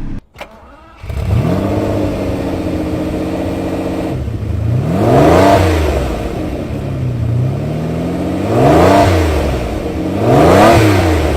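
1989 Lamborghini Countach's V12 engine comes in about a second in and idles steadily. It is then revved three times, each blip rising and falling in pitch, the last the loudest.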